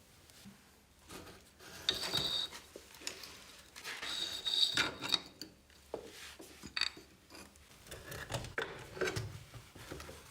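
Hand work on metal parts: irregular scraping and rubbing with sharp knocks and brief squeaks, like a part being filed or scrubbed and handled.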